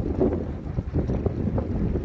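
Storm wind buffeting the microphone: an uneven, low rumbling noise.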